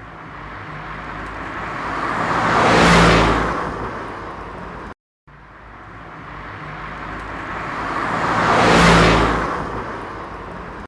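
A vehicle passing by twice: each pass swells to a loud peak and fades away, with a short silent break between the two.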